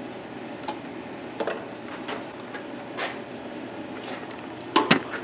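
Light clicks and taps of hands working a tester probe and wiring, a few scattered through and a quick cluster near the end, over a steady faint background hiss.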